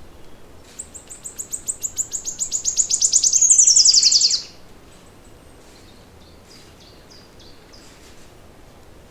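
A songbird singing: a rapid run of high notes that speeds up and grows louder for about three and a half seconds and ends in a quick falling flourish. Fainter, scattered chirps from other birds follow.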